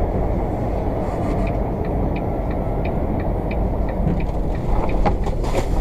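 Steady road and engine noise from a moving vehicle, with faint regular ticking through the middle and a few sharper clicks near the end.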